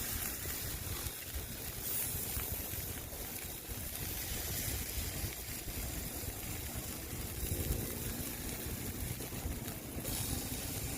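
Wind buffeting the microphone outdoors: an uneven low rumble under a steady hiss.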